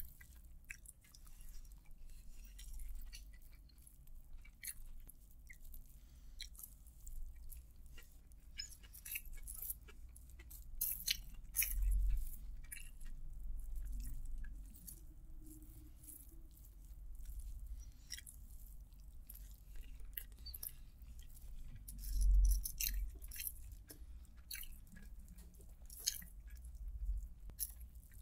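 Close-miked eating of chicken biryani with the hands: chewing and wet mouth clicks and smacks, with small crackles as fingers gather rice. A couple of dull low thumps stand out about 12 and 22 seconds in.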